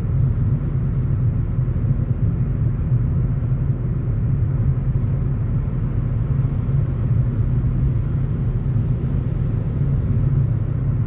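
Steady low road and engine rumble inside a car driving at highway speed.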